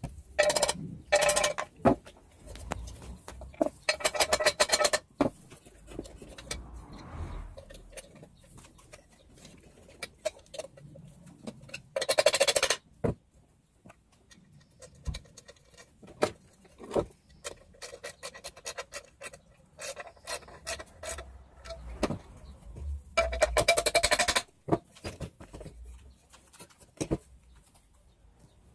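Irregular clicks, knocks and scraping of tools and metal parts being handled, with a few louder bursts of rattling and scraping.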